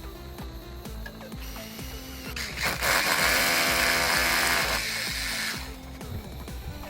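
A power tool runs for about three seconds, starting a little over two seconds in and stopping sharply near the end, over background music with a steady beat.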